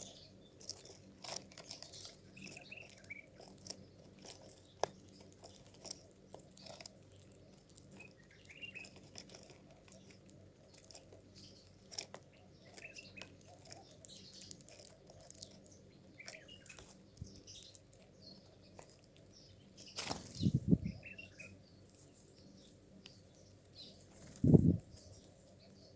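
Small birds chirping in short, scattered calls, with occasional sharp clicks and two louder low thumps, the first about twenty seconds in and the second a few seconds later.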